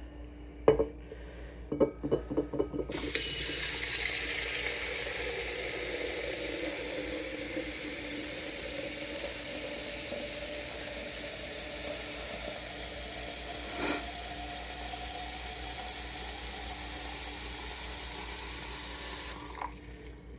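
Water running hard from a tap into a container, with a faint note in the flow rising slowly as the container fills; it is turned off shortly before the end. A few knocks and clatters of handling come just before the water starts.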